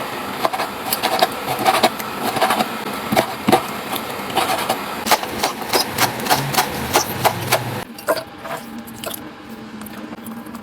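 Quick, irregular series of sharp knocks and clicks, a few strikes a second, thinning out and quieter near the end.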